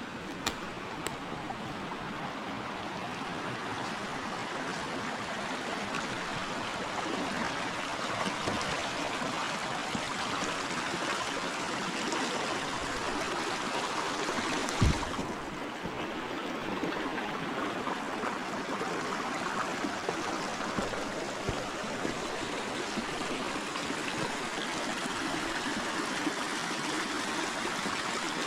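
Forest river flowing, a steady rush of water with trickling over it. A single low thump about halfway through.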